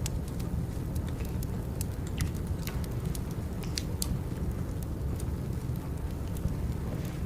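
Wood fire burning: irregular sharp pops and crackles over a steady low rumble.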